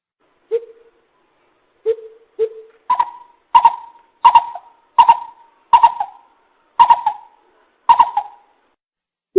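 Coucal calling: a few soft, deep hoots, then a series of louder, higher hoots, one every second or less, each beginning with a sharp click.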